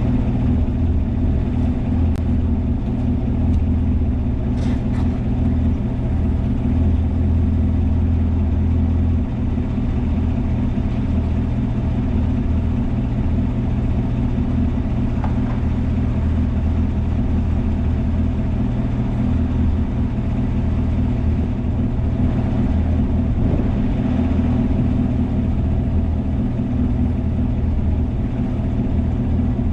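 Chevrolet Camaro ZL1's supercharged V8 idling steadily through its exhaust, with the low rumble echoing off the concrete of a parking garage.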